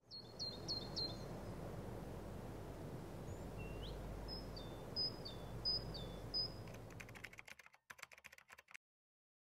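Birds calling over a steady low background noise: a quick run of four short whistled notes, then several two-note chirps stepping down in pitch, spaced under a second apart. Near the end the background drops away, leaving a short spell of light irregular clicks before the sound stops.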